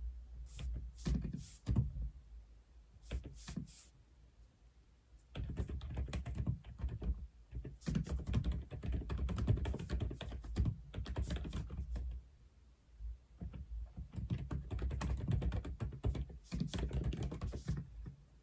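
Aula F87 mechanical keyboard being typed on: a few single keystrokes at first, then runs of fast typing broken by short pauses.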